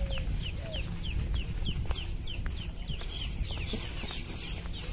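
A bird calling in a fast run of short, high, falling chirps, about four a second, fading out past the middle.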